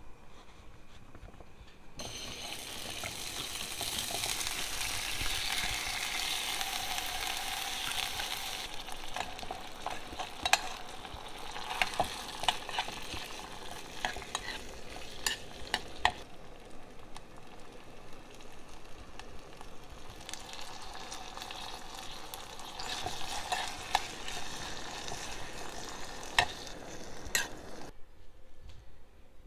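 Raisins frying in butter in a small pan, sizzling steadily, with a spoon stirring and clinking against the pan. The sizzle starts about two seconds in, is loudest at first, and stops shortly before the end.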